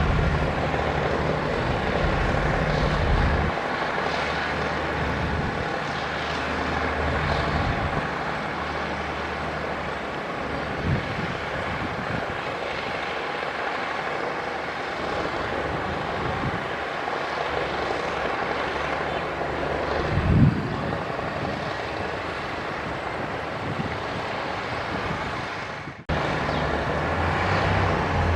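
Heavy diesel earthmoving machinery running, a steady engine drone with a low humming note that rises and falls a little, and a louder knock about two-thirds through. The sound breaks off for a moment near the end and resumes.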